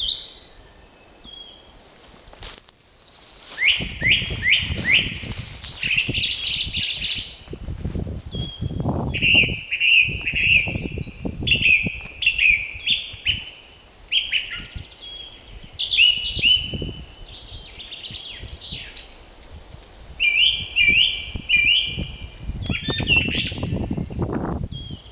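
Several songbirds singing, with short repeated chirping phrases throughout. Gusts of wind rumble now and then, about four seconds in, again around nine seconds, and near the end.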